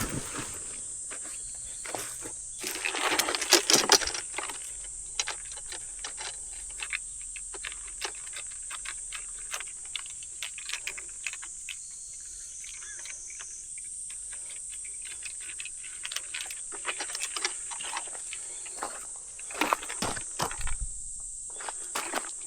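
Steady high-pitched chirring of insects such as crickets, with irregular clicks, taps and rustles over it that come in louder clusters about three seconds in and again near the end.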